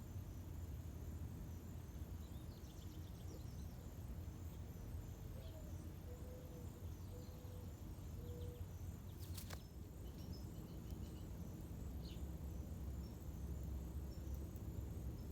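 Outdoor ambience: a steady low rumble with faint, scattered bird chirps. About five seconds in comes a short series of four low hooting notes, the first a little higher than the rest. A single sharp click sounds about nine and a half seconds in.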